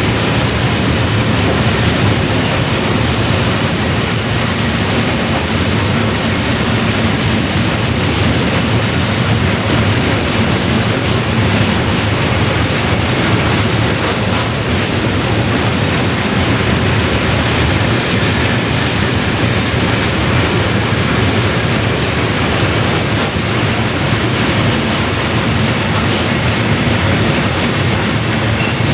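Freight train of open-top wagons rolling past at close range, wheels clattering over rail joints with a steady rumble.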